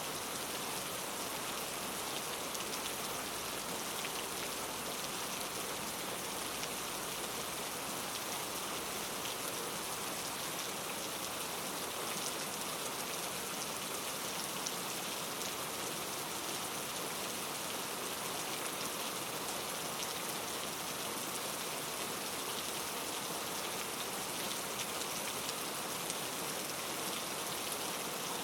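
Steady rain falling on a surface, a continuous hiss dotted with fine drop patter, with no change in intensity.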